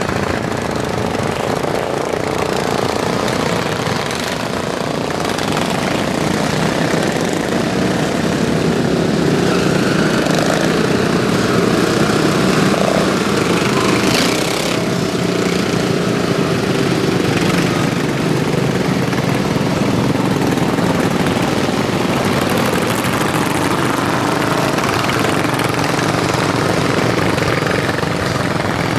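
Racing lawn mowers with stock single-cylinder overhead-valve engines running hard. The engine noise is steady, swelling a little in the middle and easing again as the mowers go by.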